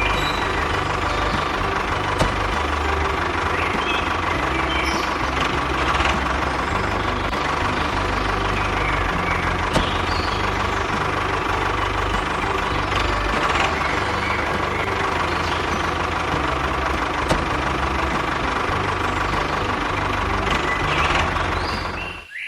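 Small engine of a mini tractor running steadily with an even chugging beat; it stops abruptly near the end.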